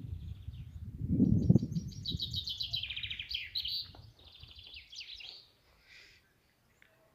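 A songbird singing rapid, high trilled phrases of repeated notes, some sweeping downward in pitch. A low rumble fills the first two seconds, and the song fades out after about five and a half seconds.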